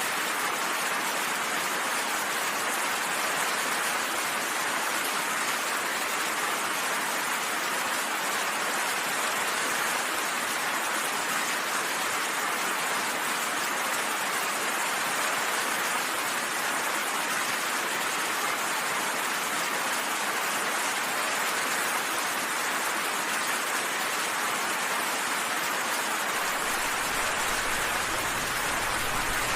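Steady heavy rainfall, an even hiss of rain falling on surfaces with no change in strength.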